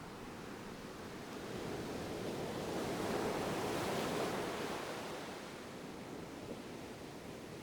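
Ocean waves breaking and washing on a shore: one wave swells up about two seconds in, peaks, and ebbs away over the next few seconds.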